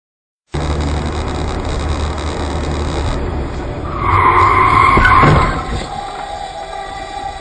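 Car tyres screeching in a skid for about a second and a half, over steady road and engine noise that starts abruptly about half a second in.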